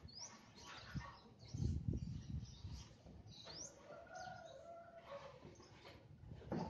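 Faint birds chirping, short rising chirps heard three times, over low rumble from wind or handling on the microphone.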